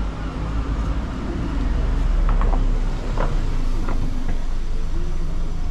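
Car engine running at low speed close by: a low, steady rumble that grows louder about two seconds in.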